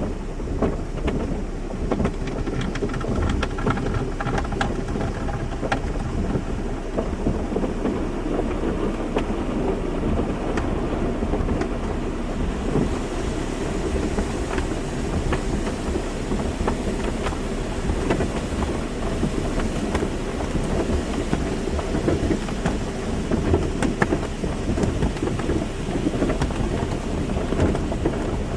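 Car wash running: water spray pattering and drumming on a car over a steady low rumble of machinery. The spray turns hissier about 13 seconds in.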